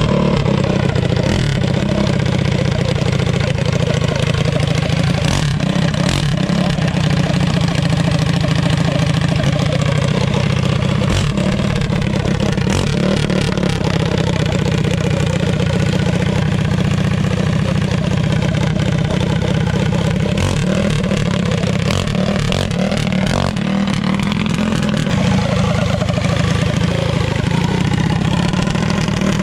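Race-built minibike's single-cylinder four-stroke engine (Tillotson block bored to 3 inches, 356 cam) running steadily and loudly just after being started.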